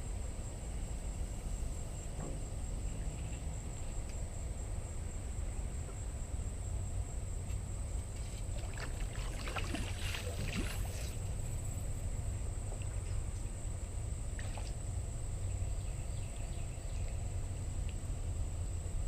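Small boat under way on the water, with a steady low rumble and a steady high-pitched whine. A brief scratchy burst comes about halfway through.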